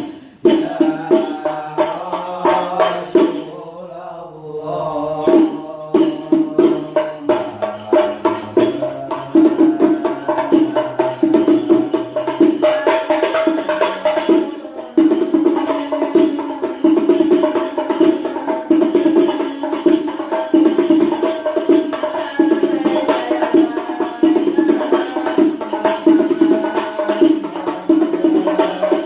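Terbang, large Javanese rebana frame drums, struck by hand in a steady, fast rhythmic pattern: a sound test of H. Mukhsin drums of size 33.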